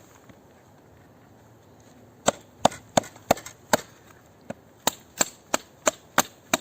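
Splitting firewood with a small knife: sharp wooden knocks, about three a second, as the knife driven into the wood is struck to split it. The knocking starts about two seconds in and pauses briefly midway.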